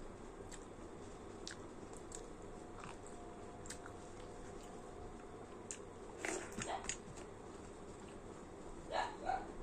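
Close-miked eating sounds: soft, scattered chewing and biting clicks, with two short clusters of louder mouth sounds about six seconds in and again near the end.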